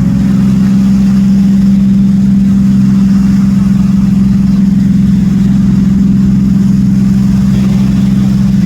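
An engine running steadily at an even speed, with a strong, constant low hum.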